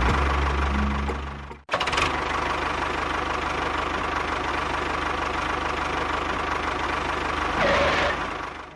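A small motor or engine running steadily with a thin, high whine. It cuts off abruptly about a second and a half in, then resumes.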